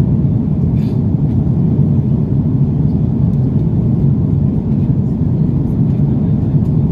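Steady low roar of airflow and engines inside the cabin of an Airbus A330-300 airliner in flight, with a faint click about a second in.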